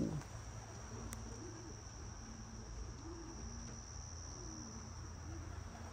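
Steady, high-pitched continuous chirring of crickets, over a faint low background hum.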